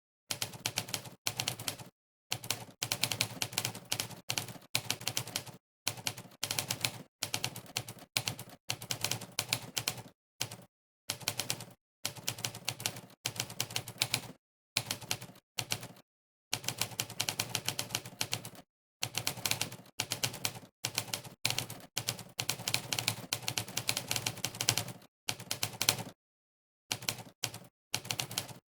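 Monkeytype's typewriter keypress sound effect, one clacking key strike per keystroke, in fast runs of rapid clicks broken by short pauses of complete silence.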